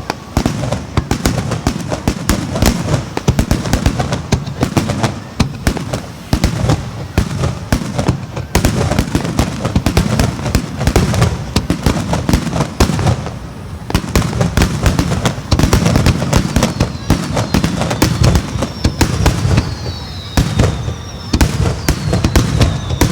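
Fireworks display going off in a dense, continuous string of bangs and crackles, with a few falling whistling tones near the end.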